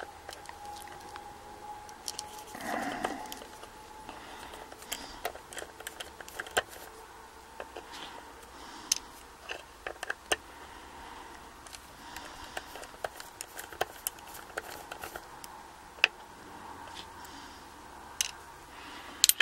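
Small metallic clicks and scrapes, scattered irregularly, as screws are worked out of the back of a Yale Y210/51 solid steel padlock with a screwdriver.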